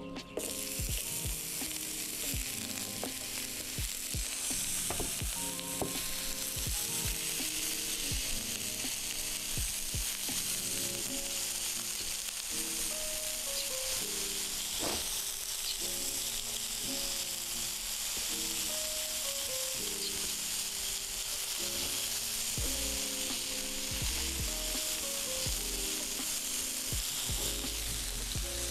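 Sliced onions sizzling steadily in hot oil on an electric griddle, with a silicone spatula stirring and scraping them near the end.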